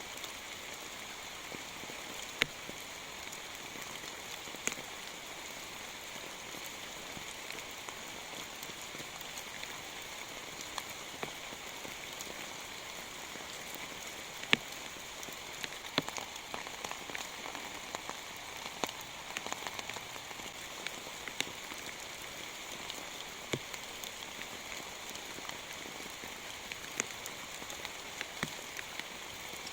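Steady heavy rain, with sharp single drops ticking loudly on a nearby surface at irregular moments.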